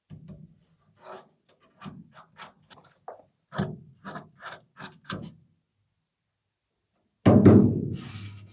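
An irregular series of about a dozen light taps or knocks, then a pause and a much louder impact with a long ringing decay about seven seconds in.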